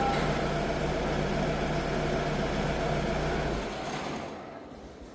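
Holder C70 tractor engine idling steadily, then shut off about three and a half seconds in, its low hum stopping abruptly and dying away. The shutdown lets the hydraulic pressure release before the hoses are coupled.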